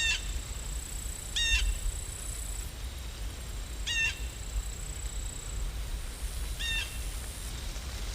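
A bird calling four times, short harsh calls a second or two apart, over a steady hiss and low rumble of outdoor ambience.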